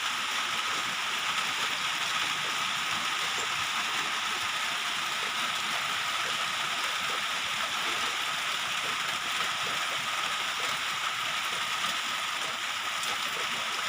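Rain falling steadily, a constant rushing hiss of water.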